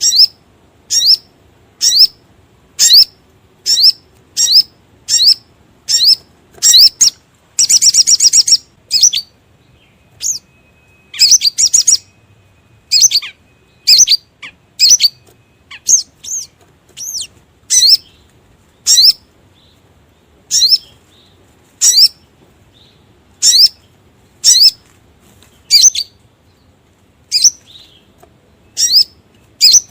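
Sogok ontong (sogon), the little spiderhunter, giving a recorded lure call: sharp, high single chirps repeated about once a second, with a brief rapid trill about eight seconds in.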